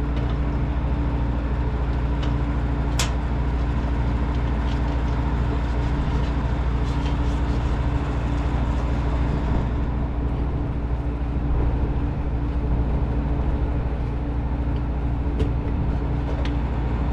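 A steady mechanical drone with a low hum, unchanging throughout, with a few faint light clicks and taps over it.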